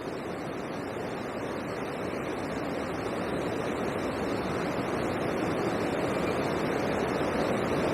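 Water pouring over a river weir, a steady rushing that grows slowly louder.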